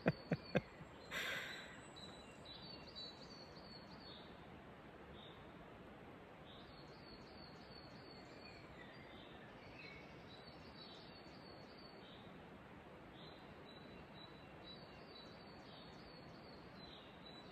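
A small songbird singing faint, repeated phrases of short high notes every few seconds over a quiet steady background hiss. A few sharp clicks and a brief rustle come in the first second or so.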